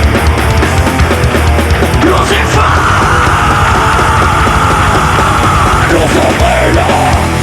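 Nu metal band playing live, loud and heavy, with a high note held for about three seconds in the middle.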